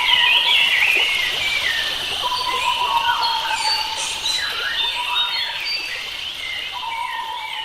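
Several wild birds singing at once in a forest chorus: overlapping quick chirps and gliding whistled phrases, with a steady mid-pitched held tone that breaks off and comes back several times beneath them.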